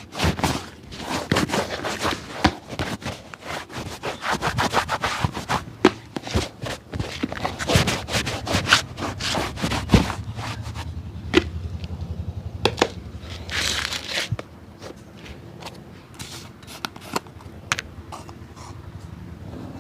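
A cobbler's hand work on a shoe: rapid scraping and rubbing strokes with sharp knocks, growing quieter about fourteen seconds in, after which only scattered clicks remain.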